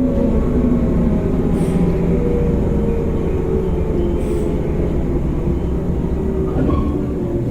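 Running sound inside a JR 185 series electric motor car: traction-motor and gear whine over the rumble of the wheels on the rails. The whine falls slowly in pitch as the train slows. Two brief hisses come about a second and a half and about four seconds in.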